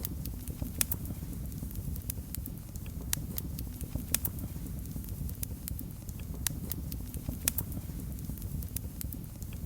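Wood fire burning in a fireplace: a steady low rumble of flames with irregular sharp crackles and pops, about one or two a second, some louder than others.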